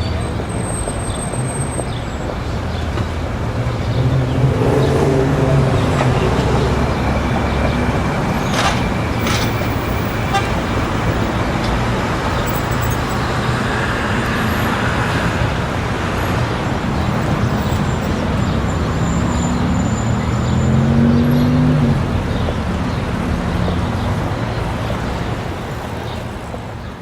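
City street traffic: a steady bed of road noise with vehicle engines passing, swelling louder about five seconds in and again near twenty seconds, and a car horn sounding. The noise fades away at the very end.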